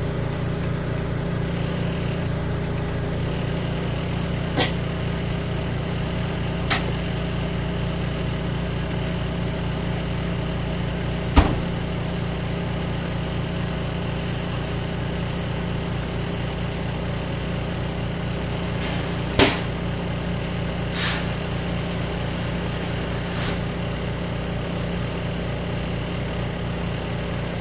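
Steady hum of a running compact washing machine together with an RV exhaust fan, with a fast low pulsing underneath. A few light clicks, and a sharp knock about 11 seconds in and another near 19 seconds.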